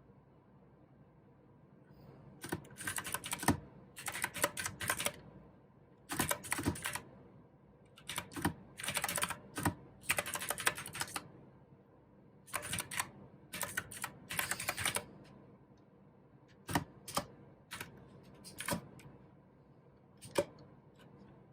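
Mechanical keyboard with clicky blue switches being typed on in quick bursts of keystrokes, then a few slower, separate key presses near the end.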